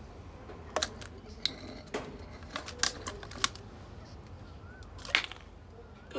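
Half a dozen sharp, irregular metallic clicks and clinks, some briefly ringing and the loudest about five seconds in, over the steady low rumble of a gas melting furnace's burner.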